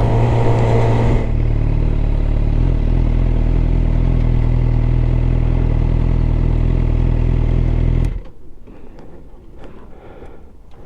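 Suzuki GSX-R750's inline-four engine settling to a steady idle about a second in, then switched off about eight seconds in, leaving only faint background.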